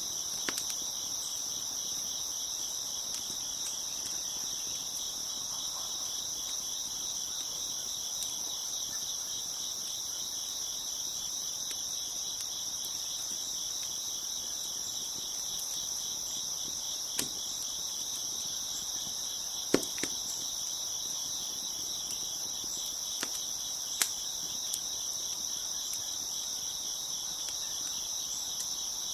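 A steady, high chorus of crickets chirping, broken by a handful of sharp pops and snaps from a crackling wood fire, the loudest about two-thirds of the way through.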